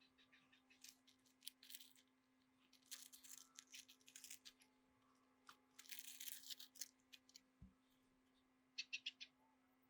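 Faint scratching, rustling and sharp clicks of small hand work on a workbench, in irregular short bursts with a quick run of clicks near the end, over a steady low hum.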